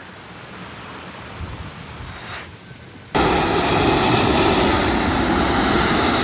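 Jet airliner passing low overhead: engine noise building with a faint rising whine, then jumping suddenly to a loud, steady noise about three seconds in.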